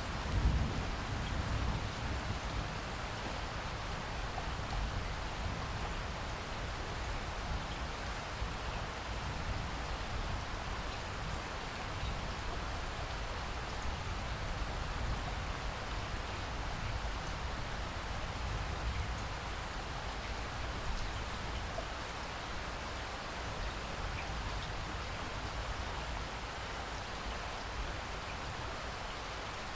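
Steady rain falling, an even hiss of drops on surfaces, with a brief low rumble about half a second in.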